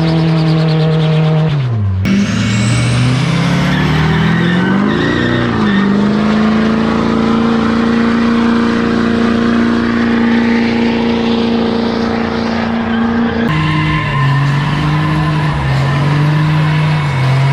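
Truck engines revving hard: one drops off, another climbs and is held steady at high revs, then a third runs with the revs dipping and recovering. The sound changes abruptly about two seconds in and again near the end.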